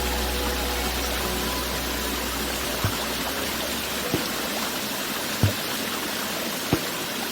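Steady rushing water sound. The last low tones of soft music fade out in the first moments, and four soft low thumps come at even intervals a little over a second apart.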